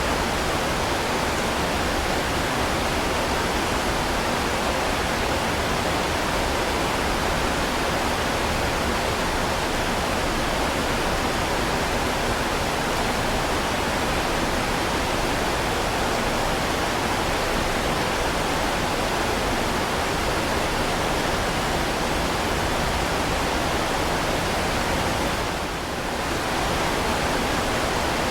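Heavy rain pouring steadily in a dense, even hiss, dipping briefly near the end.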